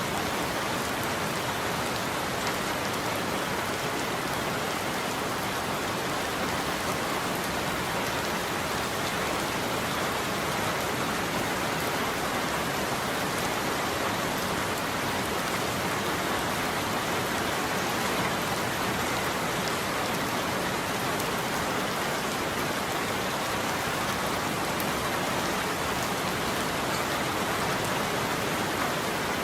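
Steady heavy rain falling and pattering on surfaces, an even, unbroken hiss with no thunder.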